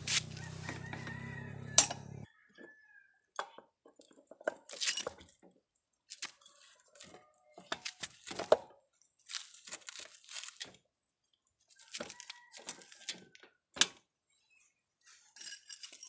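Irregular clicks, clinks and knocks of hand work on a broken-down motorcycle, refitting a lost screw and its chain. A steady low hum stops abruptly about two seconds in.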